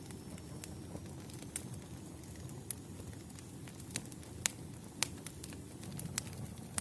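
Wood campfire burning: a low, steady rumble of flame with scattered sharp crackles and pops of burning wood, the loudest pops about four and a half and five seconds in.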